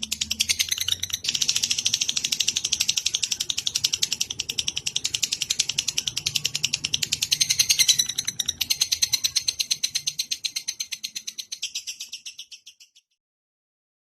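Recorded songbird song: a fast, even chattering trill of high notes, about eight a second, that cuts off abruptly near the end.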